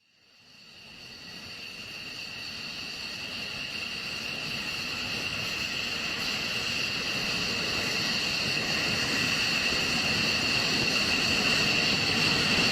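Fighter jet engine noise: a rushing roar with two steady high-pitched whine tones, fading in from silence and growing steadily louder throughout.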